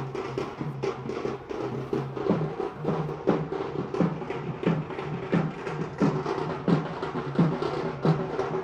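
Dhol drums beating a steady, driving rhythm, with heavy strokes about one and a half times a second and lighter beats between, over a steady held tone.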